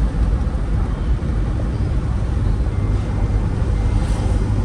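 A vehicle travelling along a road: a steady, loud low rumble with a noisy hiss above it, with no clear changes.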